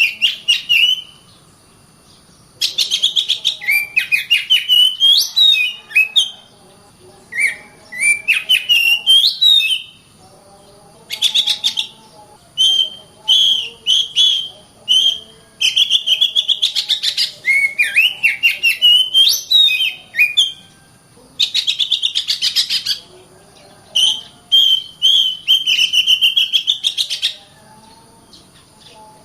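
Oriental magpie-robin (kacer) singing rapidly and continuously. Its phrases of whistled, sliding notes and harsh rapid chatter last one to three seconds each, with short pauses between.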